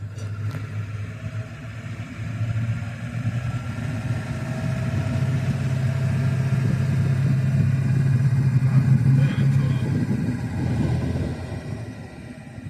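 A motor vehicle engine running under load, its low hum rising in pitch about four seconds in and growing louder to a peak around nine seconds before easing off.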